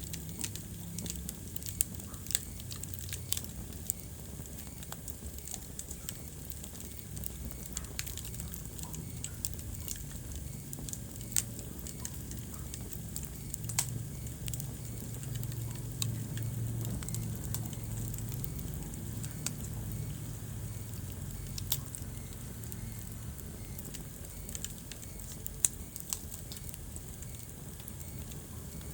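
Wood fire burning in a fireplace, crackling with irregular sharp pops and snaps, a few louder than the rest, over a low steady rumble of the flames.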